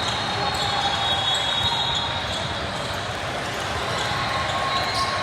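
Basketball being dribbled on a gym court amid a steady crowd hubbub, with a few high-pitched squeaks in the first two seconds.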